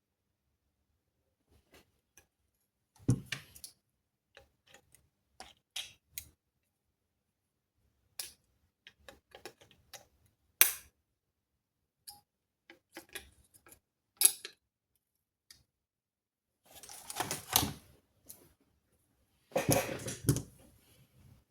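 Scattered sharp clicks and knocks of small hard objects being handled, with two longer spells of rattling and scraping near the end.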